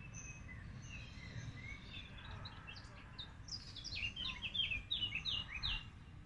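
Songbirds chirping in the trees, sparse at first, then a quick run of short falling chirps past the middle, over a low steady rumble.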